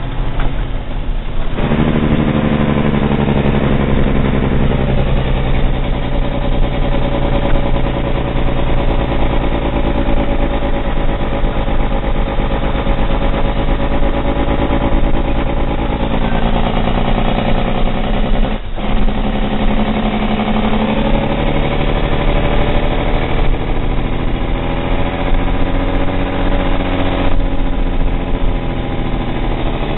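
Log truck's diesel engine pulling steadily, its pitch dropping and rising several times as engine speed changes, with a brief break partway through.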